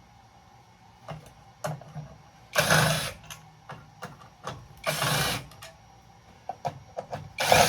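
Metal parts of a breaker box clicking and knocking as they are worked apart, with three short bursts of a small motorized tool of about half a second each, spaced roughly two and a half seconds apart, the last the loudest.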